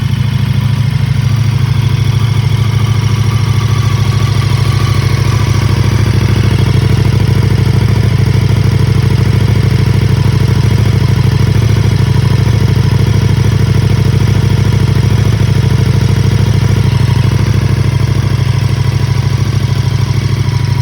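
KTM 1290 Super Duke RR's V-twin idling steadily through a freshly fitted Spark Konix Evo titanium exhaust, with a deep exhaust note. It is left at idle, unrevved, to heat-cycle the new exhaust.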